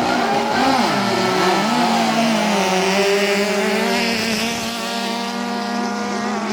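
Engines of Thai racing long-tail boats running, revving up and down for the first couple of seconds and then holding a steady high pitch.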